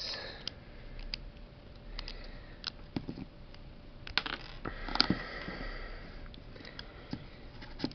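Small plastic Lego pieces of a toy parrot model being handled, making scattered light clicks and rustles, busiest about four to five seconds in.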